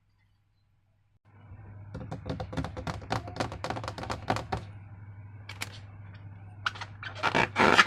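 Hands working slime and a balloon: after a short silence, a quick run of sticky clicks and small pops, then louder wet squelching near the end.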